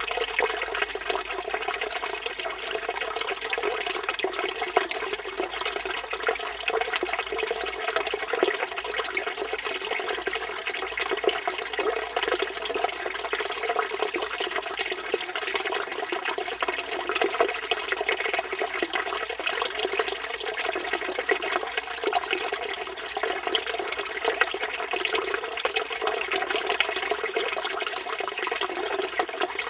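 Water from a village fountain spout pouring steadily and splashing into its basin, an even, unbroken splashing that does not change.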